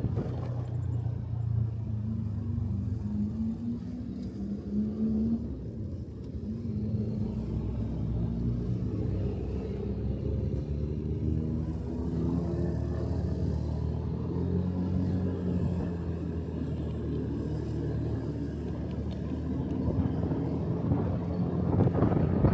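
Motorcycle engine running steadily while being ridden, its pitch rising and falling with the throttle, with road and wind noise that grows louder near the end.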